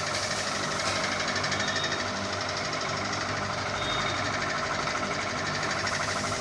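Ceiling fan running with a fast, steady mechanical rattle.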